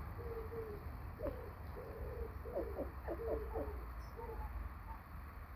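A bird's low, soft hooting calls, repeated several times, with a quicker run of short notes in the middle.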